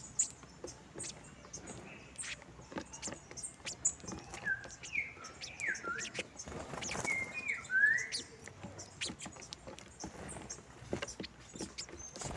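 Saffron finches chirping, with a run of several swooping, curved notes in the middle, over many light scattered clicks.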